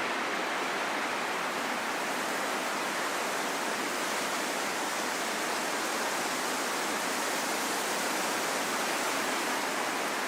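Steady rain falling in a forest: an even, unbroken hiss with no single drops, thunder or other events standing out.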